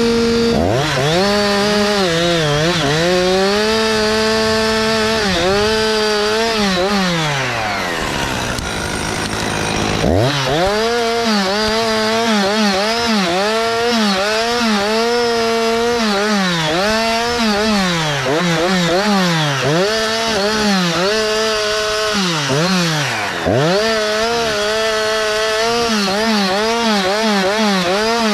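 Chainsaw cutting Japanese cedar, its engine pitch repeatedly sagging under load and picking back up as the chain bites. Around eight seconds in the revs fall away, then it revs back up about ten seconds in and carries on cutting.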